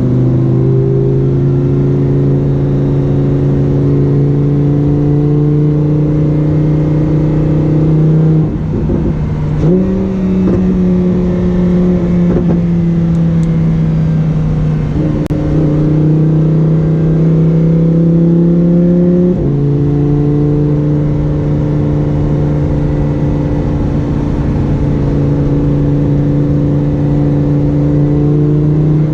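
Lamborghini Huracán Performante's V10 engine running at held, steady revs, its pitch dipping and climbing again about nine seconds in and shifting again near the twenty-second mark.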